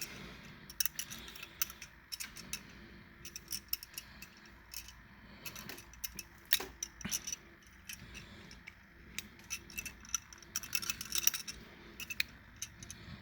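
Irregular light clicks and taps of small die-cast toy cars being handled and turned over, with small clusters of clicks about a second in, around the middle and near the end.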